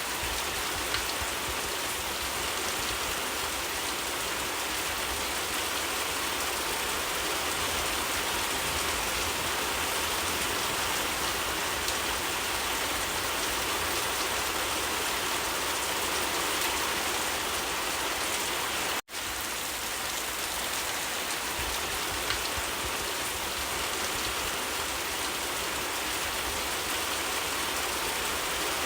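Steady rain falling, an even hiss that cuts out for a split second about two-thirds of the way through.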